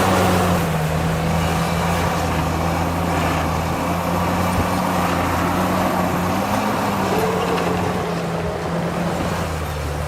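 Heavy diesel engine of a construction machine running steadily, its pitch dropping slightly just after the start and rising and falling briefly again past the middle as the throttle changes.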